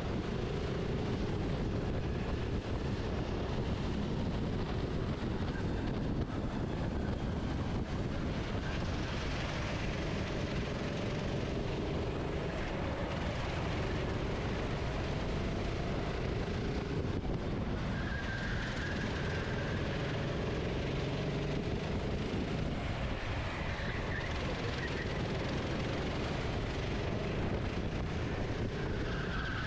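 Go-kart engine heard from an onboard camera on a kart at race pace, its pitch rising and falling with the throttle, under heavy wind noise.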